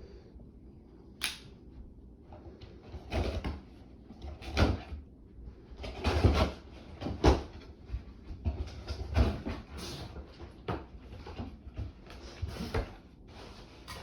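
Irregular wooden knocks, bumps and rustling from beehive frames and boxes being handled during a hive inspection, the loudest knocks clustered through the middle.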